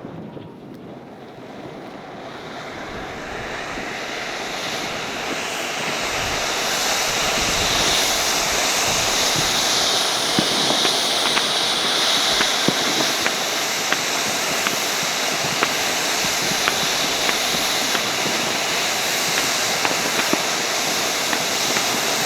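Fireworks: a dense, steady hiss and crackle that builds over the first several seconds, with scattered sharp pops and small bangs throughout.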